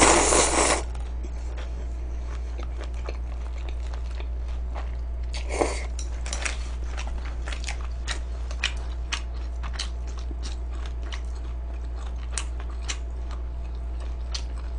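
Close-miked crunching and chewing of crispy fried chicken: a loud crunchy bite at the start, then a steady run of small crisp crunches as it is chewed.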